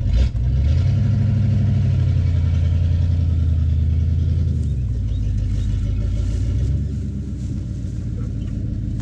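A vehicle's engine revving up and pulling steadily as it backs up slowly, then easing off about halfway through and dropping to a lower idle near the end.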